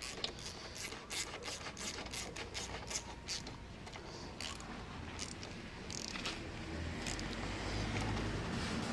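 Wrench tightening the top bolt of a motorcycle's front fork tube: a run of quick, irregular metallic clicks, giving way about halfway through to a steadier rubbing, handling noise that grows louder toward the end.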